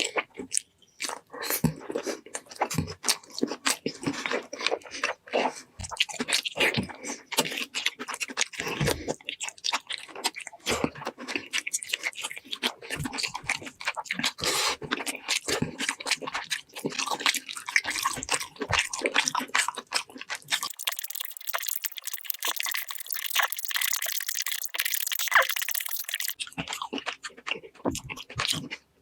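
Close-miked eating sounds: a dense run of crunching, wet chewing and smacking clicks. For several seconds past the middle the sound turns thin and hissy, with the low end gone.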